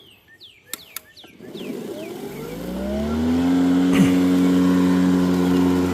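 Ryobi 40V 20-inch cordless electric push mower starting up: a couple of clicks about a second in, then the motor and blade spin up, rising in pitch for about two seconds, and settle into a steady hum. A brief sharp tick comes about four seconds in.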